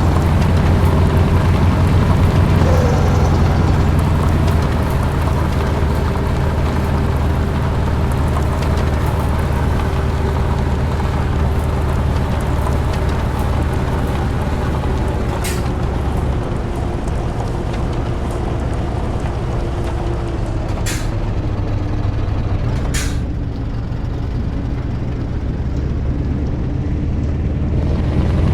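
Scania V8 diesel truck engine running on the road, its note slowly falling, with three short hisses of air in the second half.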